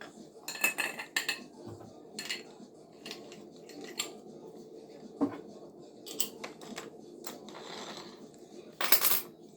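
Hard objects being handled, making irregular clinks and clatters, with the loudest ones near the start and near the end.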